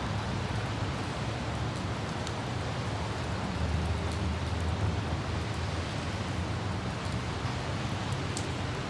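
Car driving in light rain: a steady low road rumble under an even hiss of rain, with scattered faint droplet ticks.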